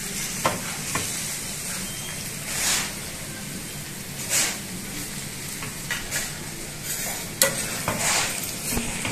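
Pork and bamboo shoots in masala sizzling as they fry in oil in a metal kadai (wok), with a spatula scraping and stirring through them every second or so.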